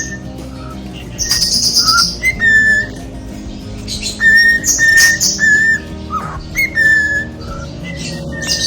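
Pet cockatiels whistling: a string of short, steady whistled notes on about the same pitch, with a few quick upward slides and scratchy chirps between them.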